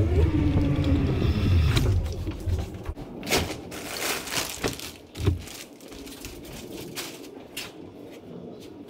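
A low rumble with a rising whine for the first two seconds. Then rustling and clatter as the delivery order is handled at the scooter's handlebars, a single knock about five seconds in, and light taps of footsteps walking away.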